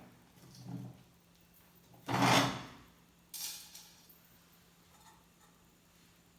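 Brief rubbing, scraping handling noises: a faint one just under a second in, a louder one about two seconds in, and a shorter, fading one about a second after that, over a faint steady low hum.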